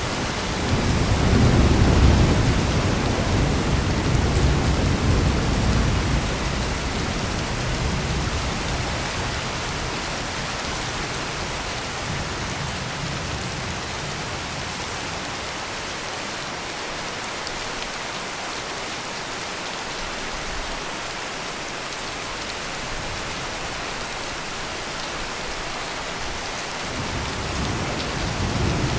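Heavy rain pouring steadily. A low rumble of thunder swells in the first few seconds and dies away, and another rumble starts to build near the end.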